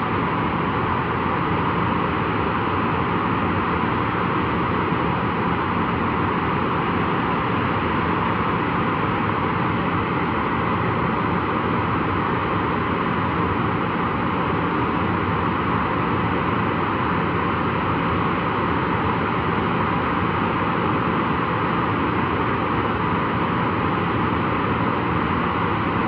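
Boeing 737-400's CFM56-3 turbofan engines running steadily during a ground engine run, a constant rushing noise with a faint steady hum underneath.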